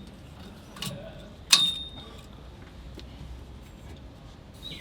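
A soft knock, then a sharp metallic clink with a brief ring, from gear and parts being handled, over a low steady hum.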